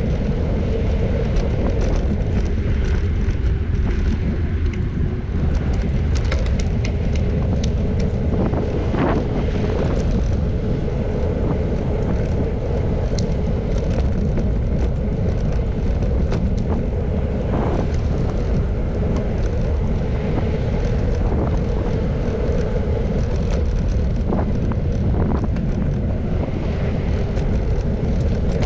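Wind rushing over the microphone of a moving bicycle, with steady road noise and a constant hum.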